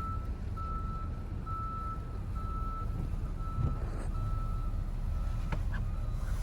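Vehicle reversing alarm sounding a steady high beep about once a second, over the low rumble of the car's engine and road noise.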